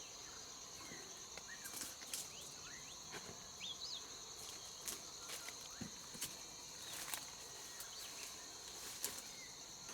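Steady chorus of insects (crickets or cicadas) holding two constant high tones, with scattered faint clicks and scuffs of footsteps on a stone path and a few short rising chirps.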